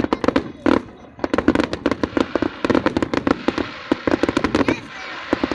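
Aerial fireworks bursting in rapid succession: many sharp bangs close together, with a crackling hiss building near the end.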